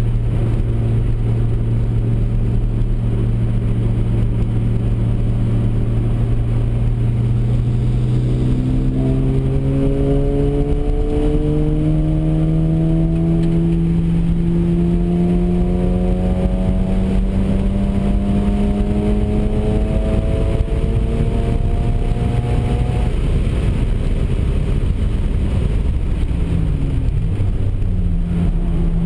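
Mazda RX-7's rotary engine heard from inside the cabin at track speed: the note holds steady, then climbs slowly in pitch for about twelve seconds under a long acceleration, and falls away near the end before steadying again.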